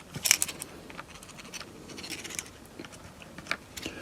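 Small scratches and clicks of a metallic paint pen's nib dabbed and rubbed over a plastic action figure, with a sharp click just after the start and a short scrape about two seconds in.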